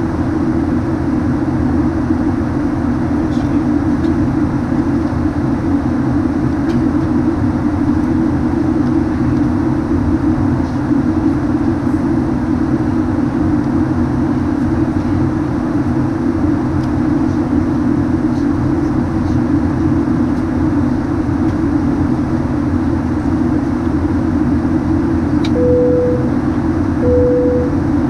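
Steady cabin noise inside a Boeing 737-900 airliner: an even rush of air and engine hum with a low drone. Near the end comes a click, then two short identical tones about a second and a half apart, like a cabin chime.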